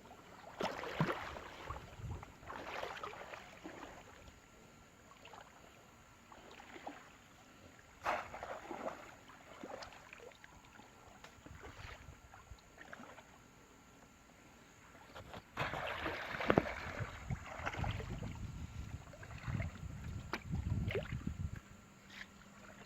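Water splashing and sloshing in irregular bursts, with a louder, heavier stretch of churning from about a third of the way from the end until shortly before it.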